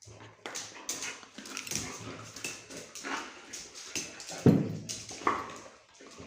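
A dog whimpering and yipping in short, irregular sounds, with one much louder short sound about four and a half seconds in.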